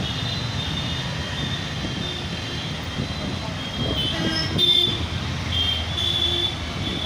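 Motorcycle riding in city traffic: a steady low rumble of engine and road. From about four seconds in, shrill high-pitched tones come and go, loudest just before five seconds.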